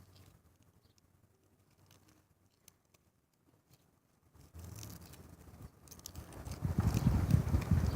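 Wind buffeting the microphone: a low rumble comes in about halfway through and builds, getting much louder near the end, after a quiet stretch with a few faint ticks.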